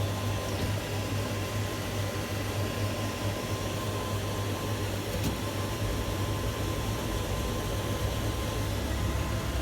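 Steady electrical hum and fan-like hiss inside a tower crane's cab, with a faint steady high whine over it.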